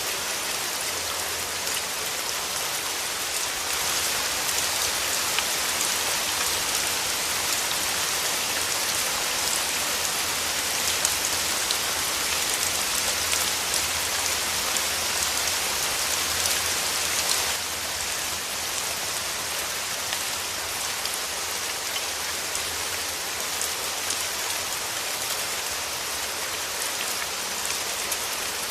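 Steady rain falling on surfaces, a continuous hiss dotted with the ticks of single drops. It grows a little louder about four seconds in and eases back down a little past halfway.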